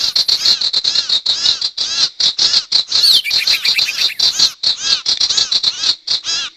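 Bird-lure recording of the 'sirtu' bird's call: a rapid run of short, arched chirps, several a second, with a quick falling slur about three seconds in.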